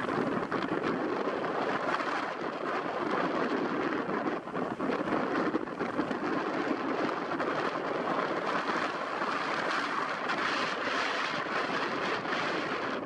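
Steady rush of wind and breaking surf from a stormy sea, with wind buffeting the microphone.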